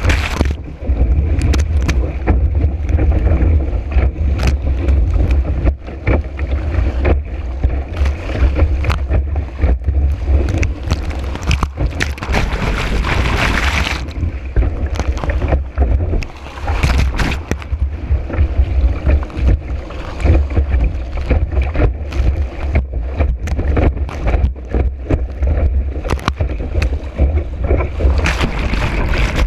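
Wind buffeting a board-mounted camera's microphone as the board speeds over choppy water, with water rushing and many sharp slaps and knocks of the hull on the chop; a louder hiss of spray comes about twelve seconds in.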